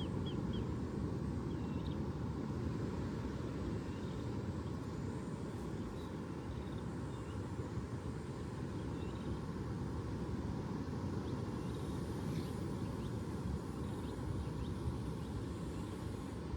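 Outdoor ambience: a steady low rumble with a few faint, short bird chirps, most of them near the start.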